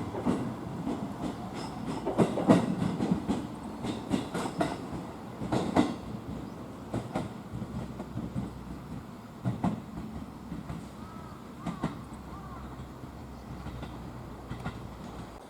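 Electric train's wheels clattering over rail joints, a run of sharp knocks over a low rumble that grows sparser and fades as the train moves away.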